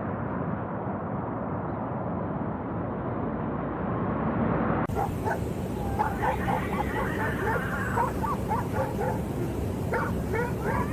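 A steady, muffled rushing noise, then abruptly, about halfway through, a dog yipping and whimpering in many short, high, repeated calls.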